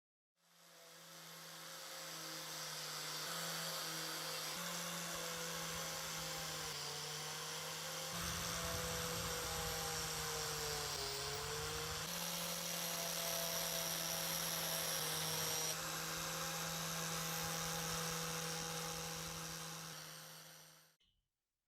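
A small high-speed electric power tool running steadily with a whine, its pitch sagging briefly about halfway through as it is pressed into the work.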